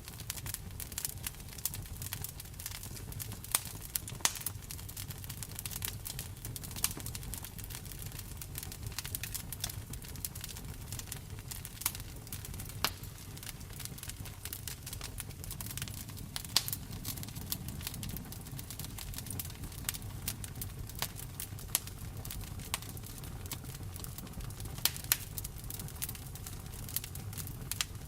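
Wood fire in a fireplace crackling, with irregular sharp pops, a few much louder than the rest, over a steady low rumble.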